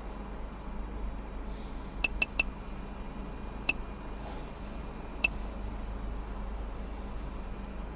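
A few short, sharp clicks over a steady low hum: three in quick succession about two seconds in, then single clicks a little later.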